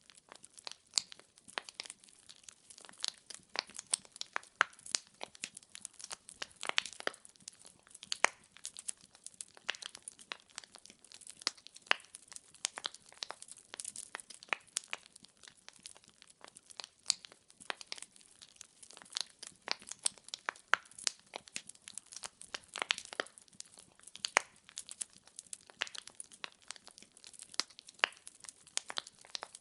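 Burning firewood crackling and popping in a fireplace: a steady stream of irregular sharp pops, several a second, over a faint hiss.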